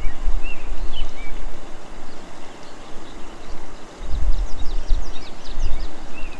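Cedar waxwings calling in short high chirps, with a quick flurry of thin, high notes a little past the middle, over a loud low rumble of wind on the microphone.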